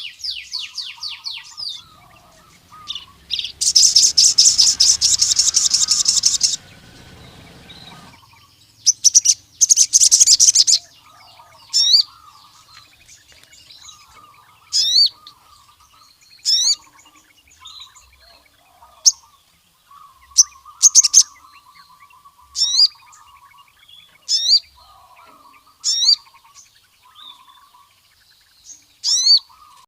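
Male crimson sunbird singing: two long, rapid, high trills, then a string of short, sharp high notes about every second and a half, over a fainter twittering.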